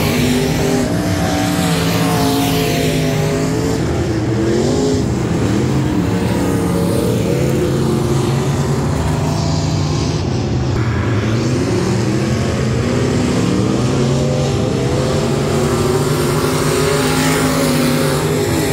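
Several race cars running hot laps, their engines revving up and down through the turns. More than one engine is heard at once throughout.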